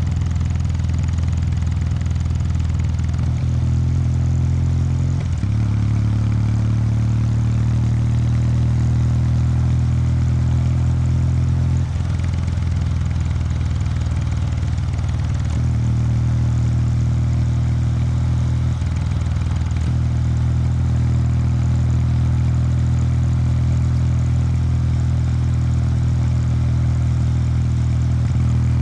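Exhaust note of a 2019 Kawasaki W800 Street's air-cooled parallel-twin engine on the stock exhaust, riding at a steady, low-pitched pulse. The engine speed steps up or down a few times along the way.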